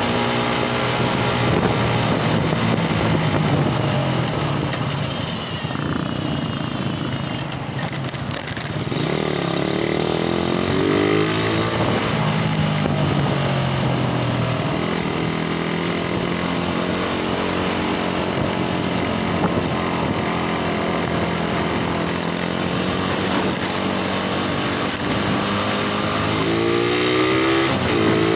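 Suzuki Raider motorcycle's single-cylinder engine running at speed, revving up and shifting through the gears, with wind rushing past. The engine eases off about six seconds in, picks up with rising pitch a few seconds later, and revs up again near the end.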